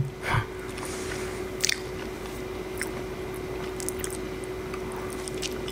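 Close-miked chewing and mouth sounds of someone eating, with a few sharp wet clicks, over a steady hiss of rain.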